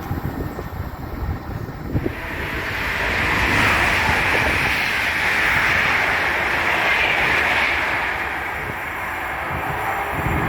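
Passenger train passing through the station at speed without stopping: a rushing noise that swells about two seconds in, holds for several seconds, and eases off near the end.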